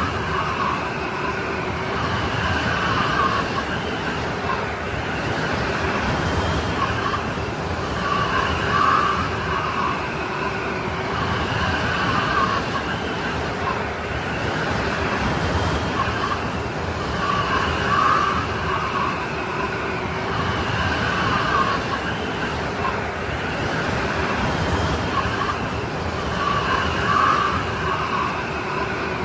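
Snowstorm wind blowing hard in a steady rush, with a whistling howl that swells and fades about every nine seconds.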